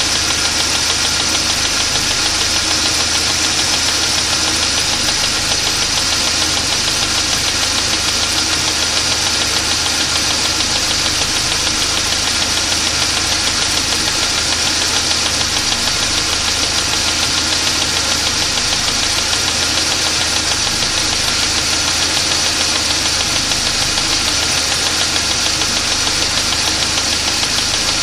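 ZMZ-409 four-cylinder petrol engine idling with a steady knock from the lower part of the engine. The knock comes at half the crankshaft speed and appears only once the engine has warmed to about 60–70 °C; the owner hears no knock from it cold.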